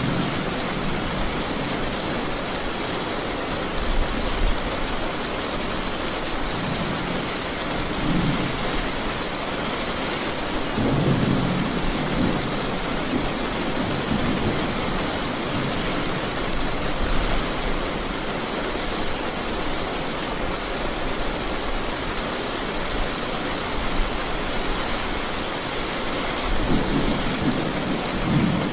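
Steady heavy rain with thunder rumbling in low swells several times, at about 4, 8, 11 and 27 seconds in.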